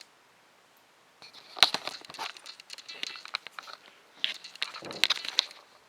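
Handling noise of unboxing: plastic packaging crinkling, with sharp clicks and taps, in two bursts of a couple of seconds each.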